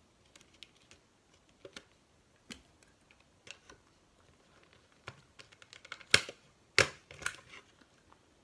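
Stapler pressed through paper and a paper plate: two loud sharp clacks about six and seven seconds in, then a softer one, among light taps and paper handling.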